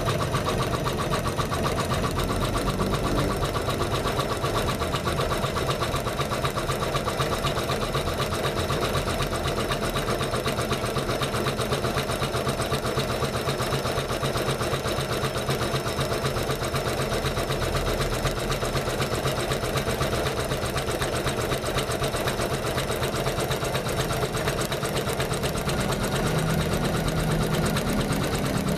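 Janome MC500E computerized embroidery machine running, stitching steadily with a fast, even rhythm.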